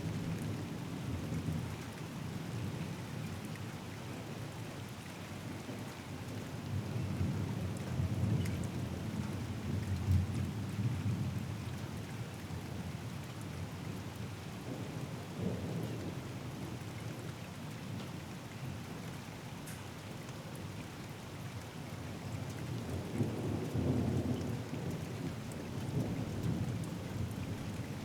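Steady rain falling with thunder rolling through it: low rumbles that swell about a third of the way in and again near the end.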